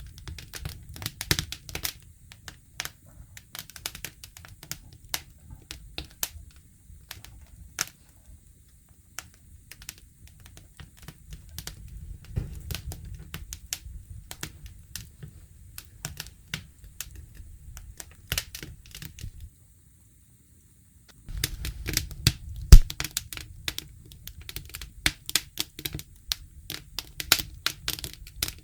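Campfire crackling: irregular sharp pops and snaps over a low rumble. The sound cuts out completely for about two seconds past the middle, then comes back with denser, louder crackles.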